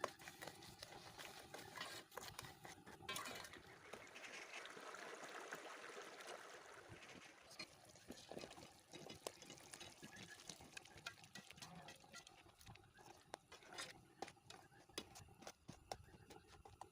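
Faint liquid pouring or trickling for a few seconds, among scattered small clicks and knocks.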